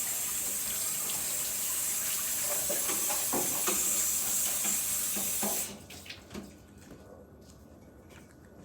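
Kitchen tap running hard into a sink, with a few clatters of dishes, shut off suddenly about six seconds in, leaving faint light knocks.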